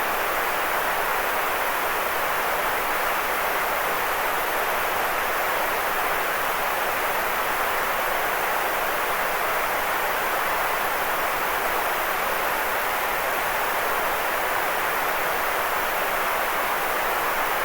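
Steady, unchanging synthetic white-noise hiss, weighted toward the middle frequencies with little bass.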